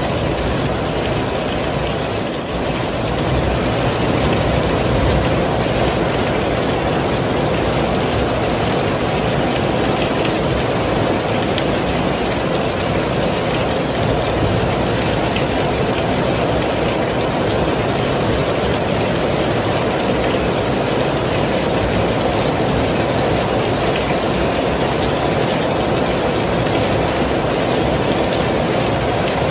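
Heavy rain falling steadily, a loud, dense, even rush with a deep undertone.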